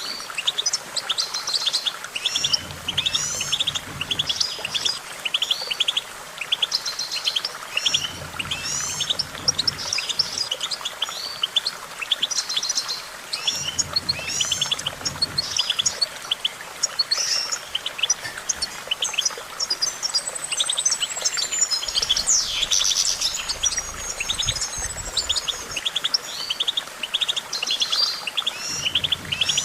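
European goldfinch singing: a fast, continuous twittering song of rapid chirps and trills, with a longer sweeping phrase about two thirds of the way through.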